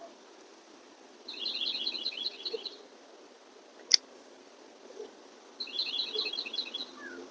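A songbird singing two quick trills, each a rapid run of about ten high repeated notes, with a single sharp click about four seconds in as chicken is bitten.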